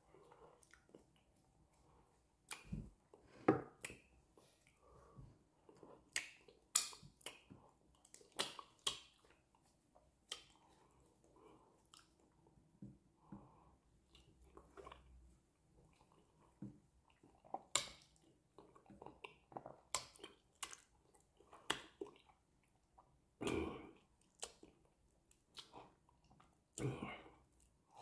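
Close-up mouth sounds of a man eating amala with banga soup by hand: irregular chewing with scattered sharp, wet clicks, a few of them louder near the end.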